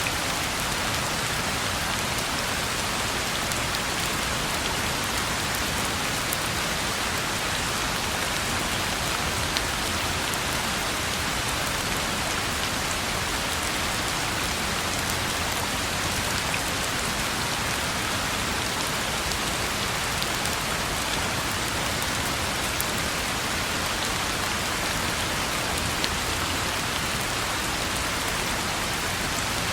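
Steady rain falling on a road: an even hiss with scattered drop ticks.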